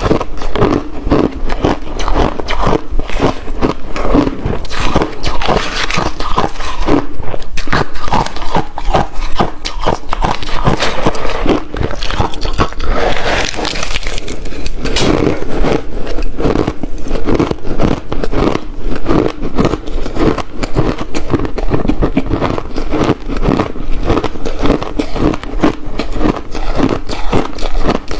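Close-miked biting and chewing of ice: a dense, unbroken run of sharp, crisp crunches and cracks.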